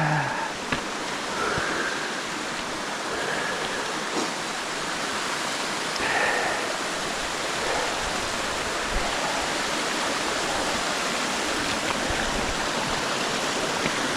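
Steady rushing of water, a continuous even hiss like a stream or cascade.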